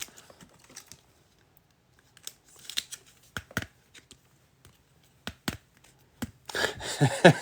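Trading cards and plastic card holders being handled: scattered light clicks and short rustles, with a longer, louder rustle near the end.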